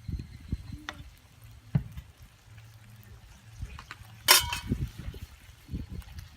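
Liquid sounds from a campfire frying pan of rice and water, with a sharp metallic clink just past four seconds in.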